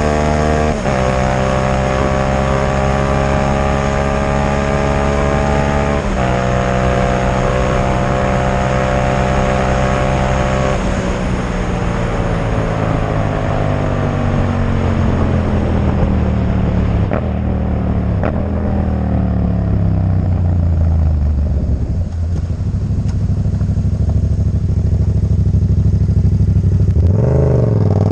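Yamaha MT-07's parallel-twin engine running loud through a Black Widow exhaust with no dB killer. Its pitch holds fairly steady with a few small steps, then falls slowly as the revs drop, and it revs sharply up and down near the end.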